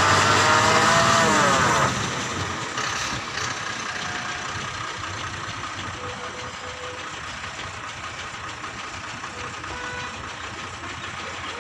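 Lorry engine running hard, its pitch falling as it eases off and dropping away about two seconds in. A steady, quieter engine-and-road noise follows.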